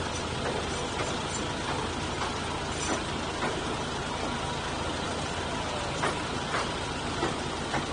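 Narrow-gauge train carriage running through a tunnel: a steady low rumble of wheels and engine, with scattered sharp clacks.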